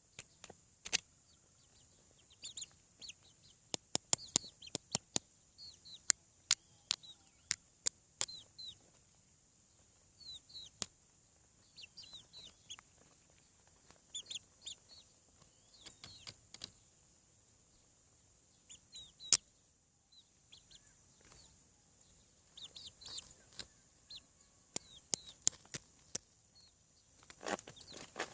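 Young chickens peeping and cheeping in short, high, downward-sliding calls, with scattered sharp taps among them and a faint steady high hiss underneath.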